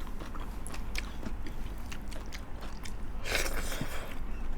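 Eating sounds close to the microphone: chewing, with many small wet mouth clicks and a brief crisp crunch about three seconds in.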